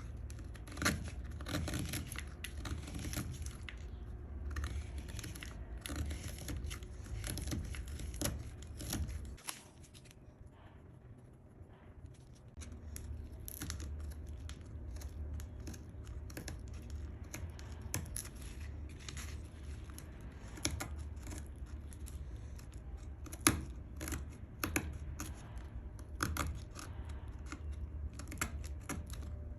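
Irregular scratchy scraping and clicking strokes from hand work on a small walnut wood piece, over a steady low hum. The strokes stop for two or three seconds about ten seconds in, then carry on.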